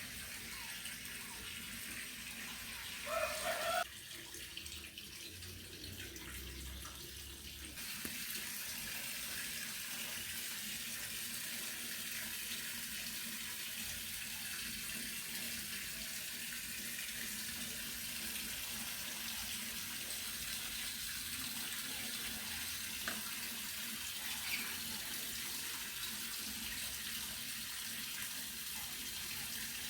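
Steady rushing noise like running water, with a brief louder pitched sound about three seconds in.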